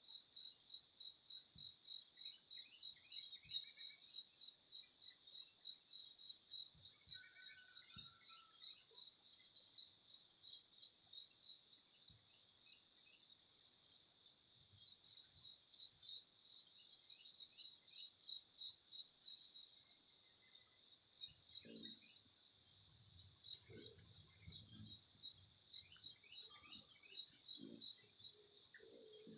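Many short, high chirps from small birds repeating throughout, over a steady, fast-pulsing high insect trill.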